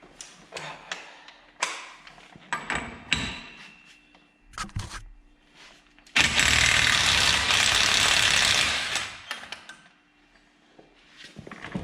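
Metal clanks and clicks of a large axle socket being handled and fitted, then about six seconds in an impact wrench hammers hard on the 35 mm front axle nut for about three seconds and stops abruptly.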